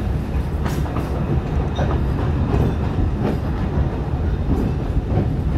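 Narrow-gauge Alishan Forest Railway cypress-wood passenger train rolling along, heard from aboard: a steady low rumble with a few clacks of the wheels over rail joints.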